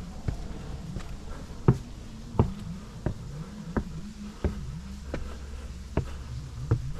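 Walking footsteps on a hard path, a sharp step about every 0.7 seconds, over a low buzz that wavers up and down in pitch like a flying insect.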